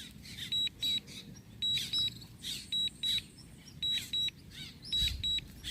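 A drone remote controller (DJI RC-N1) sounding its warning alarm: a high, thin double beep repeating about once a second. Irregular rain patter sounds underneath.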